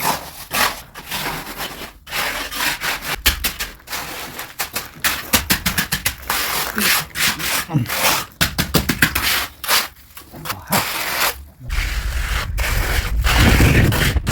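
Repeated rubbing and scraping strokes of a tool or abrasive worked back and forth on a hard surface. A low rumble comes in about three-quarters of the way through and grows louder.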